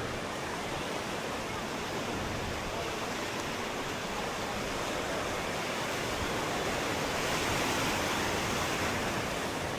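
Ocean surf breaking and washing on the shore rocks, a steady rush of water that swells a little about seven seconds in.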